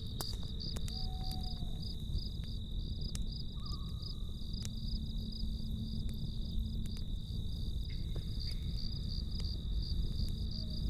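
Crickets chirping in a steady, fast pulsing trill over the low rumble of a campfire, with a few sharp crackles and pops from the burning wood. A few brief soft tones come and go.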